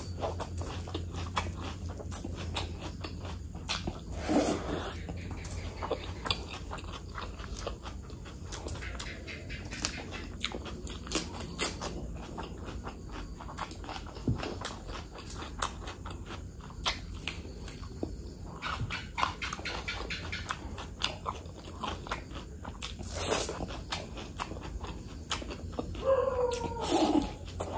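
Close-miked wet chewing and lip smacking of mutton curry and rice eaten by hand, a steady stream of small mouth clicks over a low hum, with a few short pitched mouth sounds, the longest near the end.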